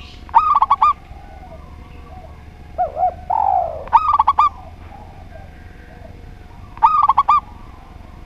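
Zebra dove and spotted dove cooing: three short bursts of quick, high, repeated coo notes about three seconds apart, with a couple of lower, deeper coos and a falling note just before the middle burst.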